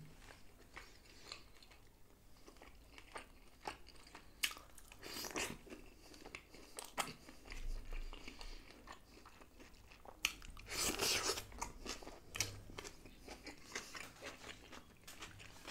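Close-miked eating: chewing and crunching on battered fried pieces dipped in green chutney and on raw beetroot-onion salad, with scattered wet mouth clicks and a louder stretch of crunching about eleven seconds in.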